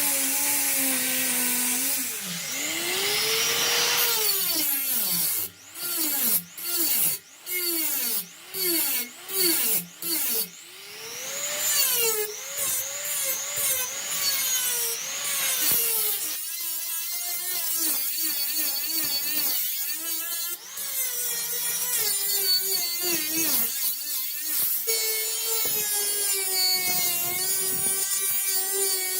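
Handheld power tool motor running, its pitch sagging and climbing as the speed changes under load. It cuts in and out in a run of short bursts in the first third, then runs more steadily.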